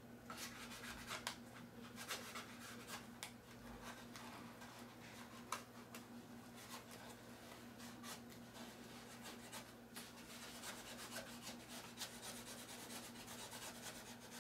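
Faint scraping and rubbing of a squeegee worked over a self-adhesive insignia, pressing it down onto the model aircraft's surface so no air bubbles form, with scattered small ticks.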